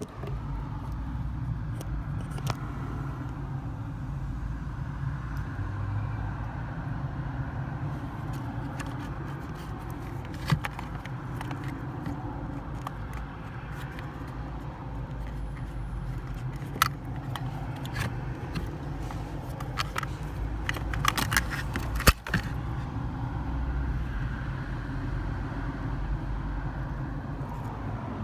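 Car engine idling with a steady low hum, with scattered sharp metallic clicks and a short run of rattling taps about three-quarters of the way through.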